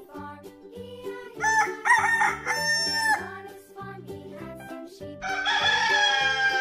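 Rooster crowing twice, one long crow a little over a second in and another starting near the end, over light children's background music.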